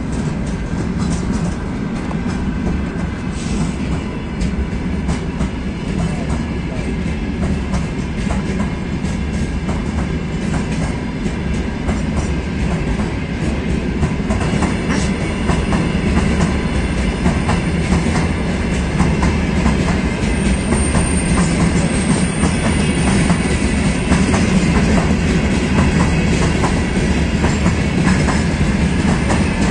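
Freight train of open gondola wagons rolling past, wheels clicking and clattering over the rail joints as the departing train gathers speed, growing slightly louder. A thin high squeal comes in briefly about twenty seconds in.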